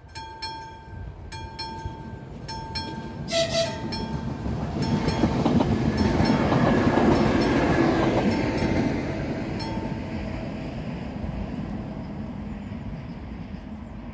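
Level-crossing mechanical bells striking at a steady pace as a passenger train approaches. A short horn blast sounds about three seconds in, then the train passes with a rising rumble and wheel noise, loudest around seven seconds. The bells stop about ten seconds in as the train runs away.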